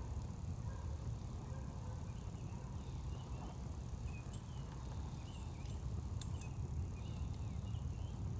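Outdoor ambience by a campfire: a steady low rumble, with a couple of sharp pops from the fire about six seconds in and faint, high chirps repeating through the second half.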